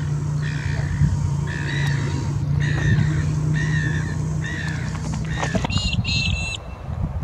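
A bird calling over and over, short pitched calls about once a second, over a steady low hum. Near the end the hum stops and a different, higher call sounds briefly.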